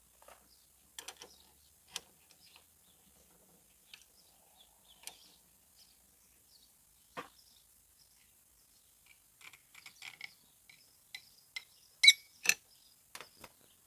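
Scattered light clicks and knocks, with two sharper clicks about twelve seconds in: hands working on plumbing fittings and pipe connections.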